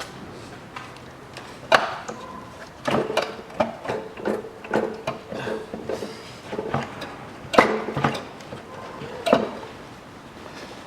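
Hand tools and metal engine parts knocking and clattering during work on an engine: a run of sharp knocks, a few of them ringing briefly like metal.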